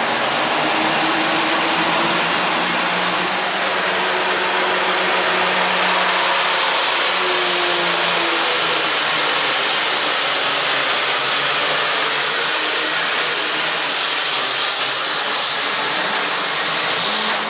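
Pulling tractor's engine running flat out under load as it drags the weight-transfer sled down the track, loud and steady with no break.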